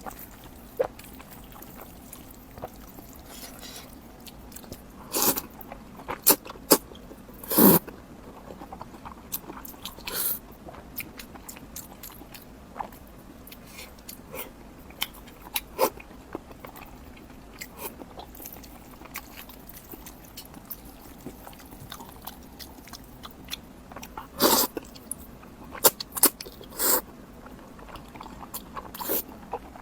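Close-miked eating: irregular bites, crunches and chewing, with louder clusters of crunching about a quarter of the way in and again late on.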